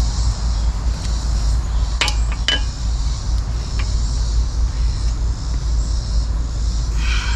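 Two sharp metallic clinks about two seconds in, half a second apart, the second ringing briefly, with a fainter clink later. Under them run a steady low rumble and a high hiss.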